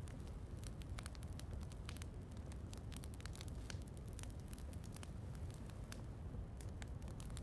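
Wood fire crackling, with frequent irregular sharp pops over a steady low rumble and the soft hiss of rain.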